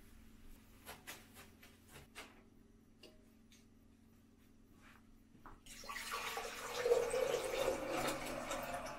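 Water poured from a glass measuring jug into a glass vase, starting about six seconds in as a steady splashing fill that is loudest soon after it starts. Before it, a few faint rubs of a sponge wiping a glass tabletop.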